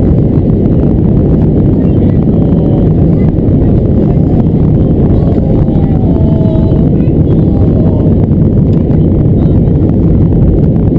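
Steady, loud cabin noise of an Airbus A320 airliner: engine and airflow noise heard from inside the passenger cabin, with faint voices in the background partway through.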